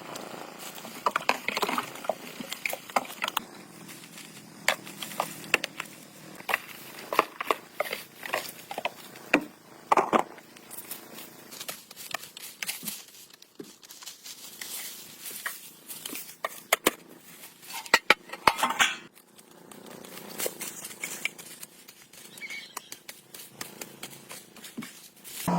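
Irregular light clicks, taps and knocks, several a second in places, of hand tools and small parts being handled during repair work.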